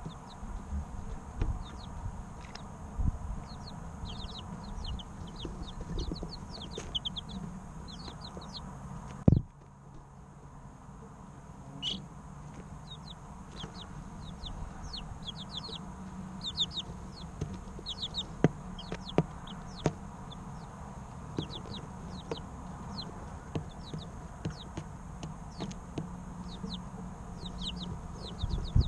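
Three-week-old chicks peeping: many short, high, falling chirps, often in quick runs. A few sharp taps and knocks cut in, the loudest about nine seconds in.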